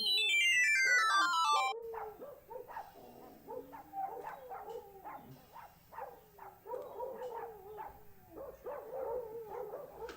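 A quick falling run of tones, then a dog whining and yelping over and over in short bending cries.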